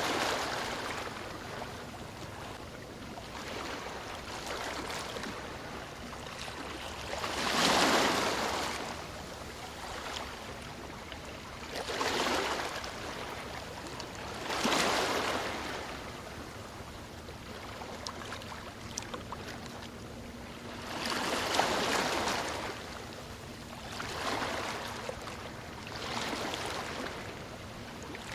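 Ocean waves breaking and washing up the shore, about seven swells of surf that rise and fade every few seconds, the loudest about eight, fifteen and twenty-two seconds in.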